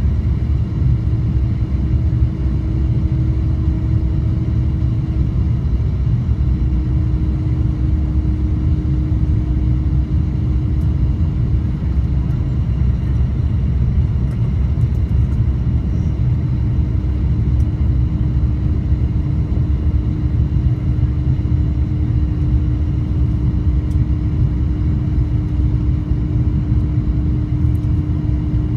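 Steady cabin noise inside an Airbus A350-900 in flight: a low roar of airflow and its Rolls-Royce Trent XWB engines, with a faint steady hum that drops slightly in pitch about six seconds in.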